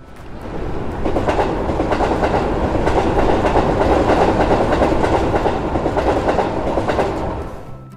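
A train passing, its wheels clattering on the rails. It swells in over the first second, stays loud, and fades away just before the end.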